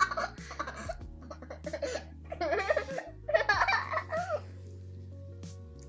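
A young girl laughing and giggling in three short bursts over steady background music; the laughter stops a little past halfway and only the music is left.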